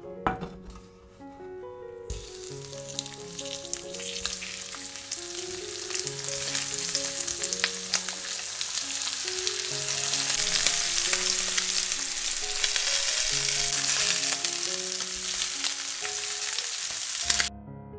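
Pepper-crusted tuna fillet steaks frying in hot oil in a nonstick pan: a crackling sizzle that starts abruptly about two seconds in, grows louder, and cuts off sharply just before the end. A single knock sounds right at the start.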